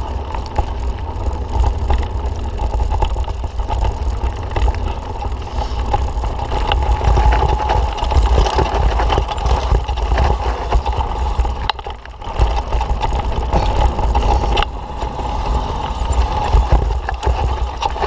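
Mountain bike rattling and clattering over a rough, rutted dirt trail, with heavy wind rumble on the camera microphone as it rides. The noise eases briefly about twelve seconds in.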